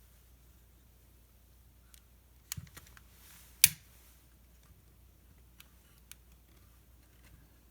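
Wood fire in a fireplace crackling: a few scattered sharp pops and clicks, the loudest about three and a half seconds in, with fainter ticks after.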